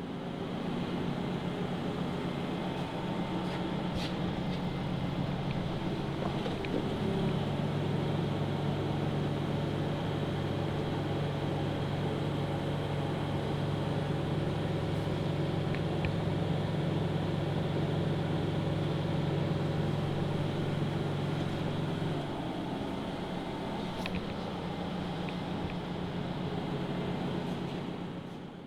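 Jungheinrich TFG 320s forklift's Volkswagen LPG engine running. A stronger, steady low hum sets in about seven seconds in and drops back about twenty-two seconds in.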